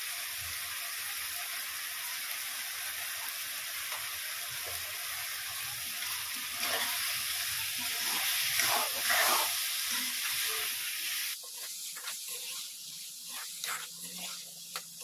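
Vegetables and spices sizzling in hot oil in a metal kadhai while a metal spatula stirs them, the masala frying with the vegetables for a vegetable pulao. The sizzle cuts off suddenly about 11 seconds in, leaving short scrapes and taps of the spatula against the pan.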